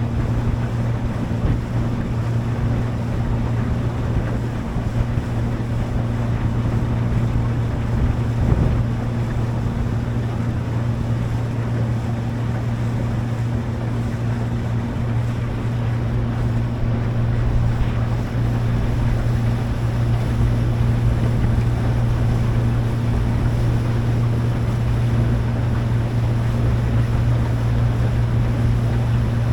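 A motorboat's engine running at a steady speed, a constant low hum, with water rushing and wind noise on the microphone.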